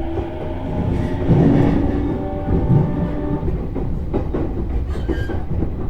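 Cabin running noise of an E233-series electric train: a low rumble with the traction motors' steady whine fading over the first second or two. Wheels then click over rail joints and points in a run of sharp clicks in the second half.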